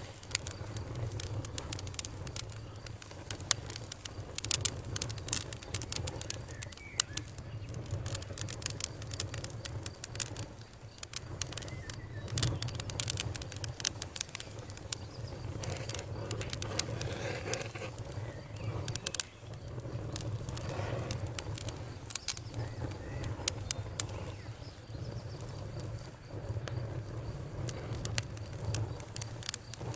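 Campfire crackling, with frequent sharp pops and snaps over a low, steady rumble.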